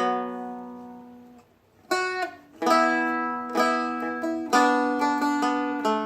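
Seagull Merlin M4, a four-string strummed dulcimer-style instrument. A note rings out at the start and fades over about a second and a half, then a short melodic phrase follows, several plucked and strummed notes with the open drone strings sounding under them.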